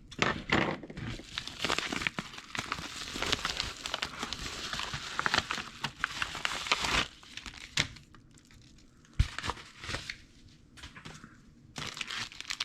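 Packaging being crinkled and torn as a parcel is opened: dense crackling and rustling for about seven seconds, then quieter handling with scattered clicks and one sharp knock, and more crinkling near the end.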